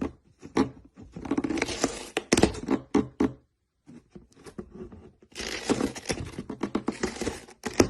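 Irregular scraping and rustling with many sharp clicks and taps, broken by short pauses.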